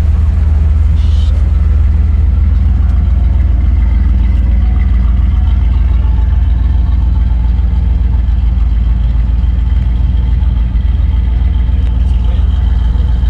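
A third-generation Pontiac Firebird Trans Am, built as a KITT replica, idling with a steady low rumble.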